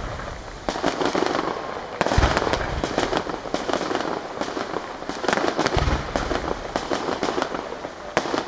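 Aerial fireworks display: shells bursting with deep booms three times, under continuous dense crackling.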